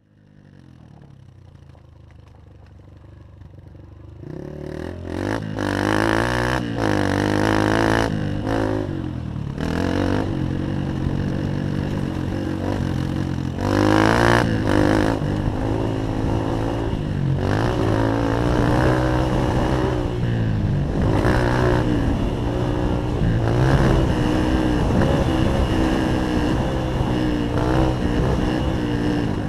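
Honda CRF150 dirt bike's four-stroke single-cylinder engine revving up and down as it is ridden around a motocross track, its pitch climbing and dropping again and again through gear changes. It is fairly quiet at first and grows much louder about four seconds in.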